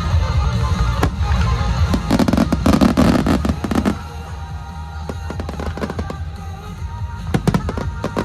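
Starmine fireworks bursting over loud recorded music. A rapid cluster of bangs and crackles comes about two to four seconds in, and a few more sharp cracks come near the end.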